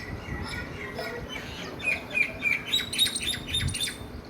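Ring-necked parakeet calling in a rapid run of short, sharp chirps, loudest in the second half.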